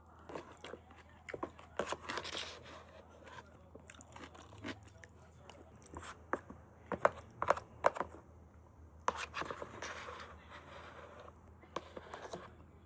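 A person biting and chewing crunchy food up close, with a run of sharp crackles and crunches, loudest about seven to eight seconds in.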